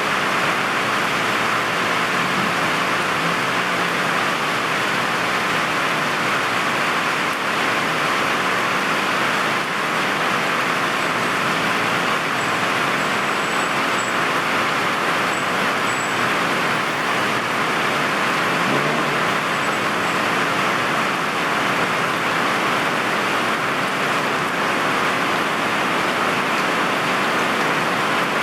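Heavy rain falling steadily on a city street, mixed with the hiss of traffic on the wet road.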